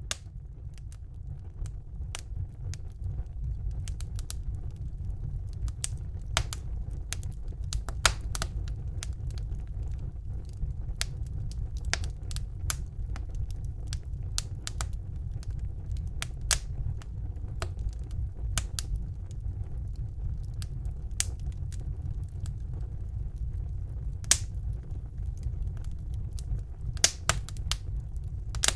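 Wood fire burning in a fireplace: a steady low rumble of flames with irregular sharp crackles and pops from the logs, a few much louder than the rest. The sound fades in over the first few seconds.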